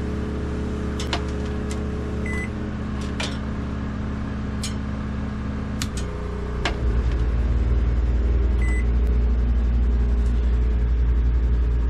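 A microwave oven and a WEN 3600-watt generator running together with an air conditioner and heater, the generator carrying the full combined load without tripping. A steady electrical hum grows louder and pulses from about seven seconds in, with two short high beeps and a few light clicks.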